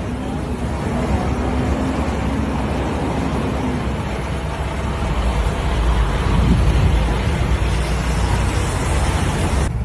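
Steady road and traffic noise with a heavy low rumble, which grows louder in the second half and cuts off abruptly near the end.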